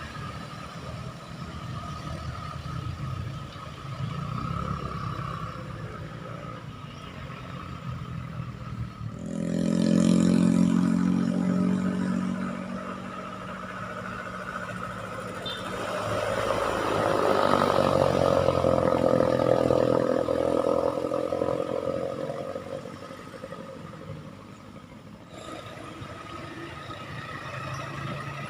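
Road traffic passing. About nine seconds in a loud, steady-pitched blast starts suddenly and fades over a few seconds, and later a louder vehicle passes, rising and then falling away.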